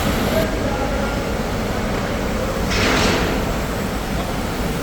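Steady machinery noise in a workshop, with a brief hiss that swells and fades about three seconds in.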